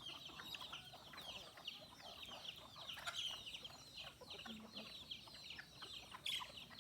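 A flock of chicks peeping continuously, a dense stream of short, high, falling cheeps, with a brief low cluck from an adult chicken about halfway through.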